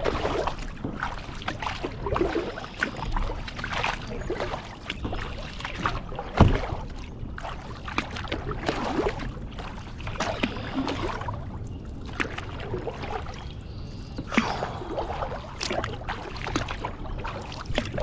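Kayak paddle strokes dipping and splashing in the water, a stroke every second or two, with water trickling off the blades. About six seconds in there is a single sharp knock, the loudest sound.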